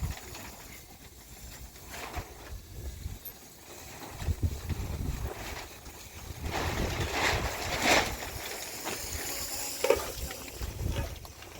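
Wind buffeting the microphone, an uneven gusting rumble, with a few brief rustling noises in the second half.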